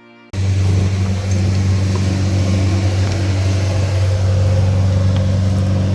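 Airliner engines running steadily, heard from inside the passenger cabin: a loud, even, deep hum with a broad rushing noise over it, cutting in suddenly just after the start.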